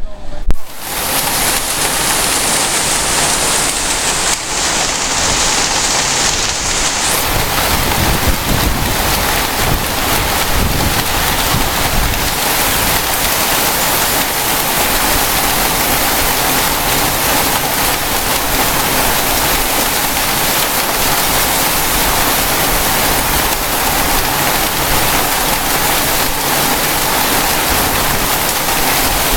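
Heavy storm downpour: a dense, steady hiss of rain.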